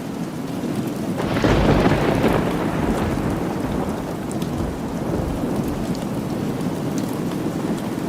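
Steady rain with a roll of thunder that breaks in about a second in, rumbles loudest for a second or so and fades away over the next few seconds.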